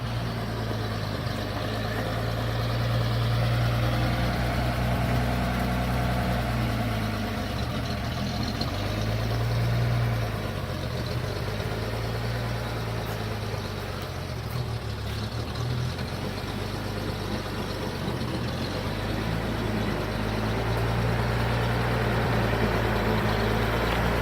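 1947 International KB-7 truck's engine running at low speed, a steady low hum that swells and eases a little a few times.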